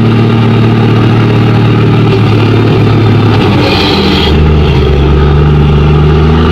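Large vehicle engine running steadily, then dropping to a lower, deeper note about four seconds in, with a brief hiss around then.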